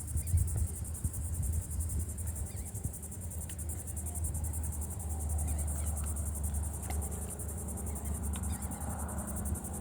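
Insects chirring steadily in a high, fast, even trill, over a low rumble.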